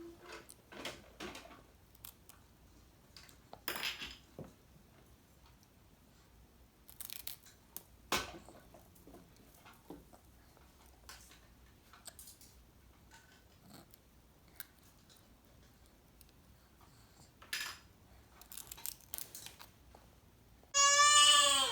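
Scattered small clicks and rustles of handling, then near the end a loud, brief high-pitched squeal from a baby.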